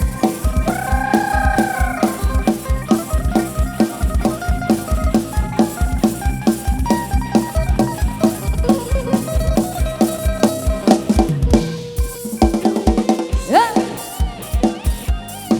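Instrumental break of an Isan sound-truck (rot hae) band: a steady drum-kit beat with bass drum and snare under a pitched melodic lead line that slides in pitch near the start and again near the end, with no singing.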